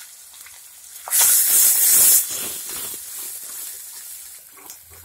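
Chopped onions and green chillies sizzling in hot oil in a steel kadai as they are stirred with a wooden spatula. There is a loud burst of sizzling about a second in, lasting about a second, then a softer sizzle.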